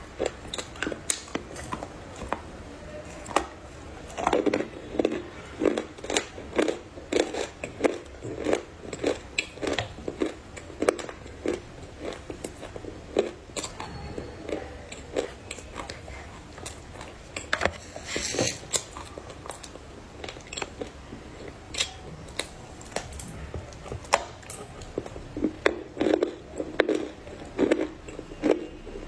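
Close-up biting and chewing of hard, dry clay: a person crunching through pieces with many sharp, irregular cracks, busier in two stretches, near the start and near the end.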